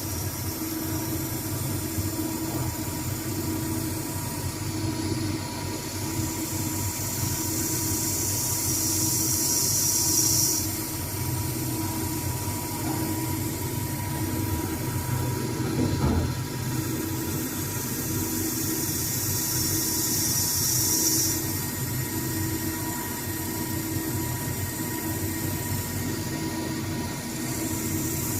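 CNC lathe running through a turning job: a steady machine hum with a pulsing low tone, and a high hiss from the cut that runs for several seconds at a time, stopping and starting between passes. There is a single sharp click about 16 seconds in.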